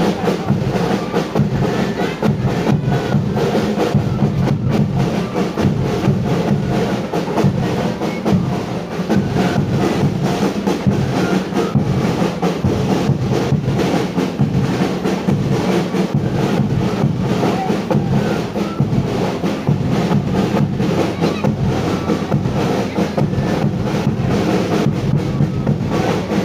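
Drum-led music, with drums beaten in a quick, steady rhythm and a deep bass drum underneath.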